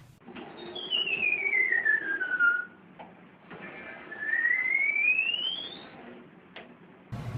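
New Birkenstock shoes squeaking with the wearer's steps: two long, whistle-like squeaks, the first falling in pitch and the second, about a second and a half later, rising.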